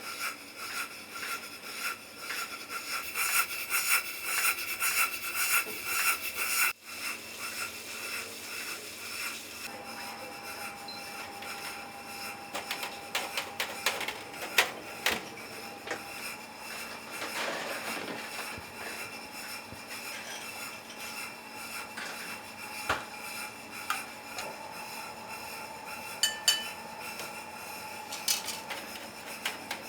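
Kitchen prep: rhythmic scraping strokes, repeated quickly, for about the first seven seconds. It cuts off suddenly, and quieter kitchen handling follows, with scattered clicks and clinks and a faint steady hum.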